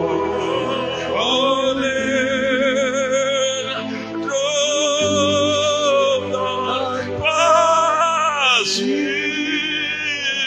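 A solo voice singing worship music in long, held phrases with strong vibrato, over sustained accompaniment chords that change about halfway through.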